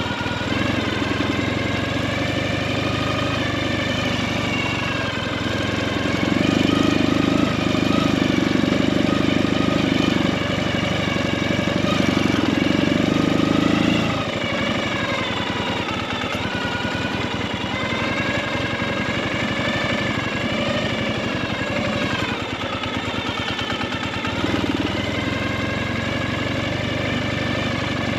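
Motorcycle engine running at low speed on a rough dirt road, its pitch rising and falling with the throttle. It is louder for several seconds in the middle, then drops back to a lower, more pulsing beat.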